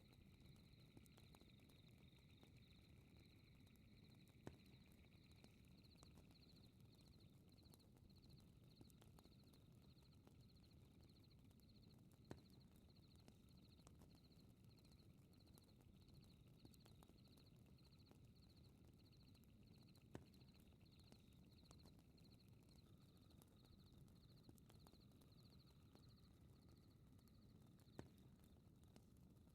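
Faint night ambience: insects chirping in a steady, even pulse over a low rumble, with the soft crackle of a fireplace and four sharp pops about eight seconds apart.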